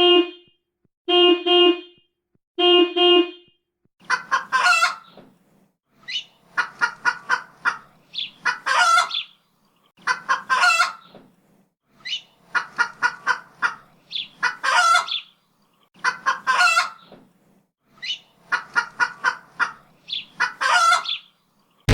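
A hen cackling over and over: each round is a quick string of four or five clucks followed by a longer drawn-out squawk, repeating about every two seconds. Before it, three short steady honk-like tones sound about a second and a half apart.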